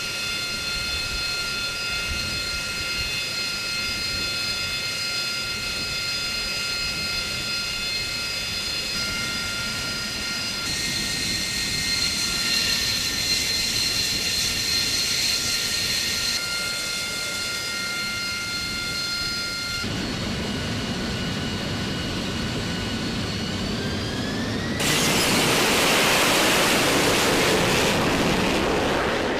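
AV-8B Harrier II's Rolls-Royce Pegasus turbofan running with a steady high whine. Near the end the whine rises in pitch as the engine spools up, and a louder jet roar takes over.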